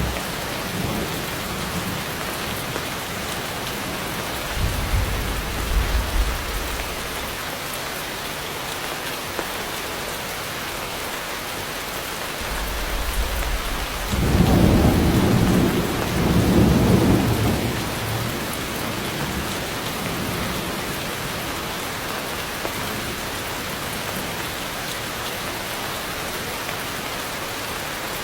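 Heavy rain falling steadily, with rumbles of thunder: a short one about five seconds in and a louder, longer one from about twelve to eighteen seconds in.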